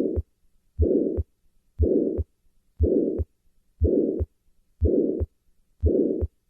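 Heart sounds of a small residual ventricular septal defect after tetralogy of Fallot repair, about one beat a second. Each beat is a first heart sound followed by a pansystolic murmur that runs right up to the second heart sound.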